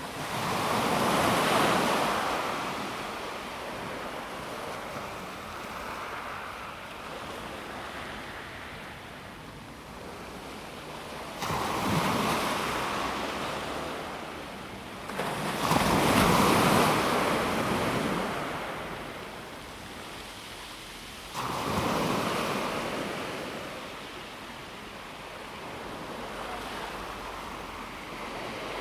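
Calm sea waves breaking on a pebble beach. Four waves each arrive suddenly and then fade away: one right at the start, then about eleven, fifteen and twenty-one seconds in, the loudest at about sixteen seconds.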